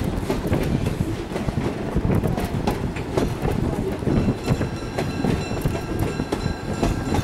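Rumble and clickety-clack of a train's wheels running over the rails, heard from the open platform of a moving car. From about four seconds in, a faint steady high tone sounds over it.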